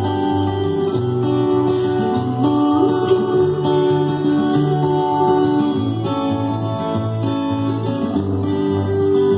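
Instrumental music with plucked string notes over a heavy bass line, played through a Zebronics 7.1-channel home theatre speaker system turned up to full bass.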